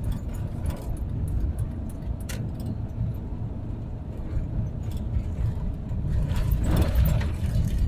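Inside the cab of a twin-turbocharged 6.0-litre LQ4 V8 truck while it drives: a steady low drone of engine, exhaust and road noise, with a few faint clicks.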